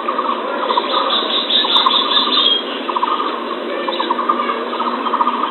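Recorded bird calls played as a hunting lure: a string of rapid trilling calls, repeated every second or so, over a dense background hiss.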